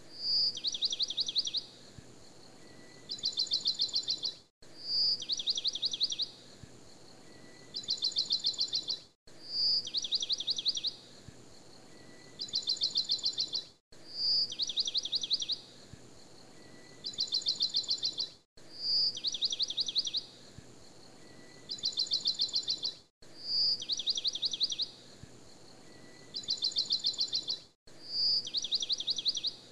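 Bird song on a repeating loop: a short high note, a fast trill, a pause, then a second, higher trill, the whole phrase repeating identically about every four and a half seconds with a brief dropout at each repeat.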